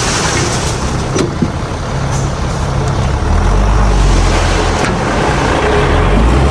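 Heavy earthmoving machine's diesel engine running steadily, a deep rumble that grows a little louder partway through, with a couple of short metallic knocks.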